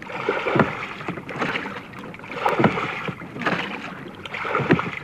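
Oars of a sea-rowing boat stroking through the water, a splash and knock about every two seconds in a steady rowing rhythm.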